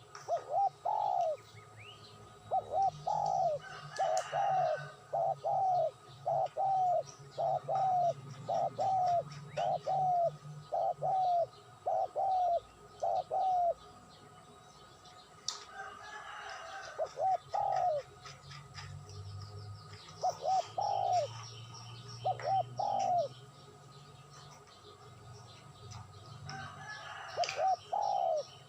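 A bird calling over and over in short arched notes, about one and a half a second through the first half, then in shorter runs with pauses, over a steady low hum.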